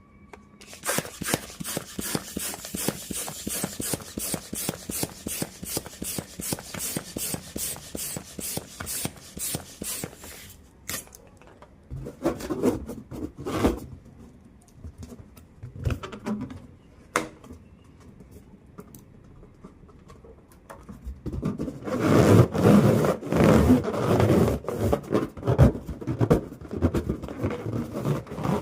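Rubber balloon handled and deflated: about ten seconds of rapid scratchy rubbing and squeaking against the rubber, then scattered taps, then a loud fluttering rush of air escaping through the neck near the end.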